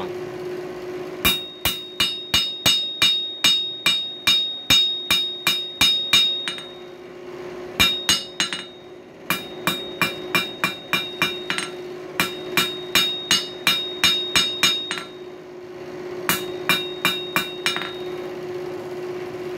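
Blacksmith's hand hammer striking coil spring steel on an anvil, drawing the screwdriver bit out to a taper: ringing blows about four a second, in several runs broken by short pauses. A steady low hum runs underneath.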